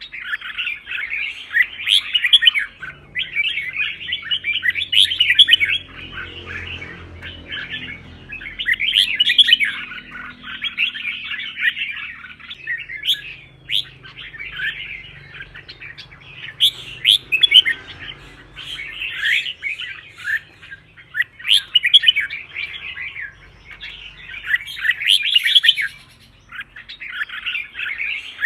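Red-whiskered bulbul song: loud, quick warbled phrases repeated one after another with short breaks, the competitive 'fighting' song that keepers play to fire up their birds.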